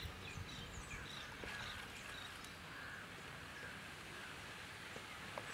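Wild birds chirping and calling, short high chirps scattered throughout over a faint steady background of outdoor ambience.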